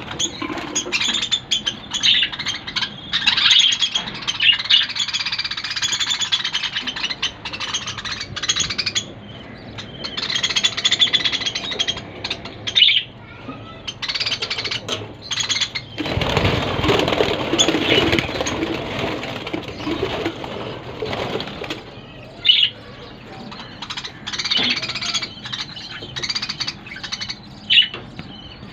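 Budgerigars chattering and warbling, with many short, quick chirps throughout. A louder, fuller noise lasts several seconds about halfway through.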